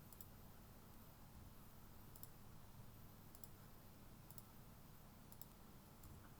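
Faint computer mouse clicks, five of them, most as quick double-clicks about a second apart, over a low room hum.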